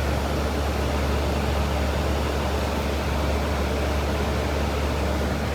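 Carrier central air-conditioner condenser unit running, its compressor and condenser fan giving a steady low hum under an even rushing noise. The owner thinks the fan motor is probably a new one.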